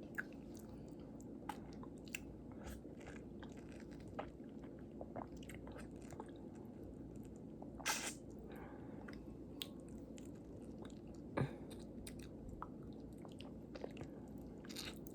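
A person biting into and chewing a soft stone fruit, with small mouth clicks scattered throughout and two louder bites about eight and eleven seconds in.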